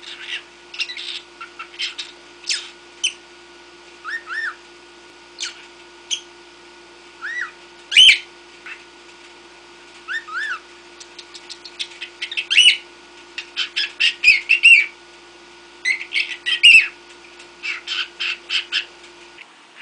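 Cockatiel chattering: a rapid, uneven run of short chirps, whistles and squawks, with a few sharper, louder squawks among them.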